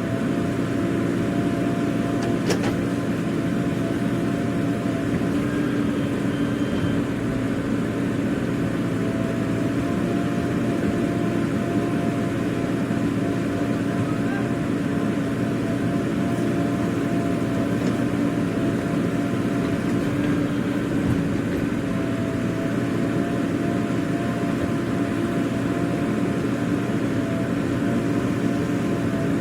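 Heavy diesel engine running steadily at an even speed, with a brief sharp click about two and a half seconds in.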